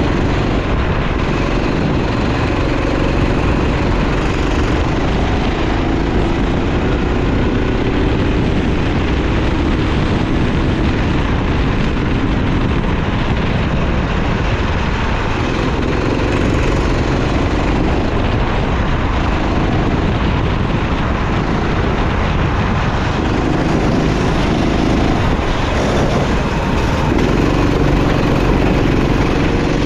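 Racing kart engine running at speed, its revs rising and falling through the corners, over a steady rush of noise.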